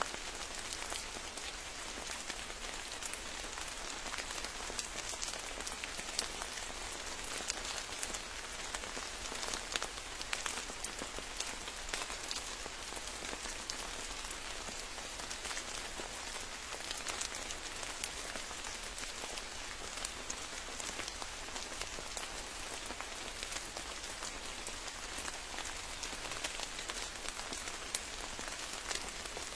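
Steady rain falling, a dense patter of drops striking surfaces with no let-up.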